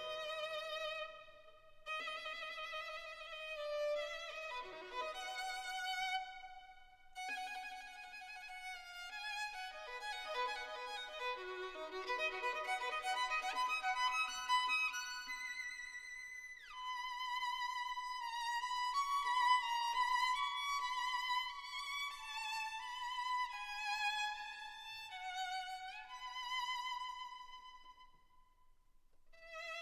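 Background music: a solo violin playing a melody with vibrato, dipping quiet near the end.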